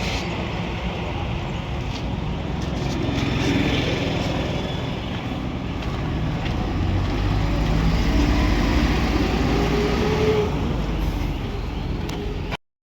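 Motor vehicle running amid road traffic noise, a steady rumble with a faint rising tone about seven to ten seconds in. The sound cuts off abruptly near the end.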